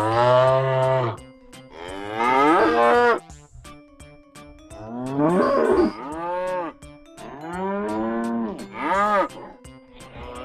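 Cattle mooing: about four long, loud moos one after another, the last one shorter.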